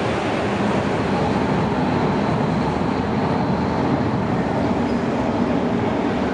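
A train running close by, a loud, steady rumble of engine and rail noise.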